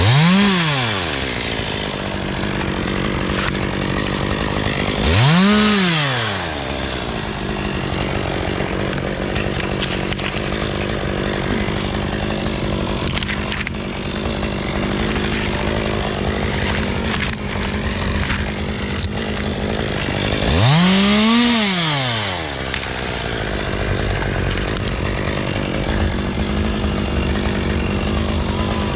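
Two-stroke chainsaw revving up and dropping back three times, at the start, about five seconds in and about twenty-one seconds in, over a steady engine drone in between.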